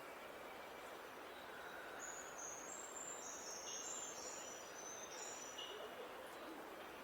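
Small songbird singing a quick run of high, thin notes, starting about two seconds in, over a steady outdoor hiss.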